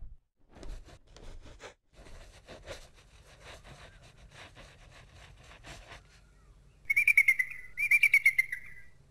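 Flapping bird wings, a run of quick rustling beats for about six seconds, then two short warbling bird calls, each about a second long, near the end.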